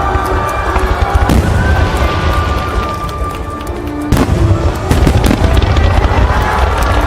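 Fireworks display: aerial shells bursting in a steady run of low booms and crackles, with sharp reports about a second in and again about four seconds in, after which it gets louder. Music plays along with the fireworks.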